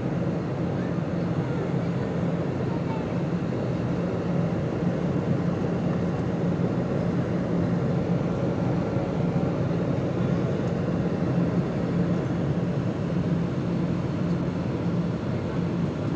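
Steady drone of an airliner's engines and airflow heard inside the passenger cabin in cruise, from a seat beside the engine, with a low hum and no change in level.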